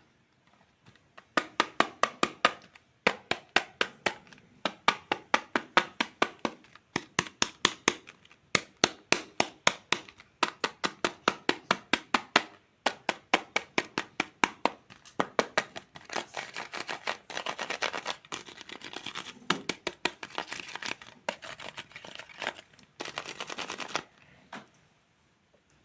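Plastic toy fruit being cut with a toy knife: quick runs of sharp clicks that turn into denser crackling about two-thirds of the way through.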